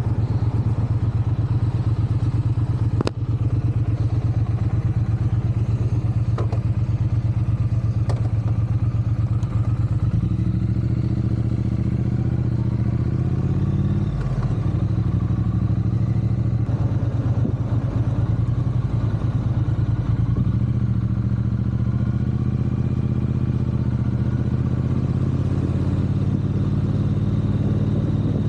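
Triumph parallel-twin motorcycle engine running at low revs, its pitch rising and falling with the throttle. A sharp click sounds about three seconds in.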